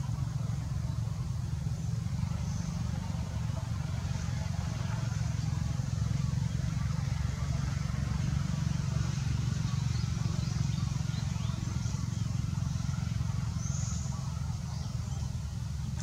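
Faint, short high bird chirps over a steady low rumble, with one clearer chirp near the end.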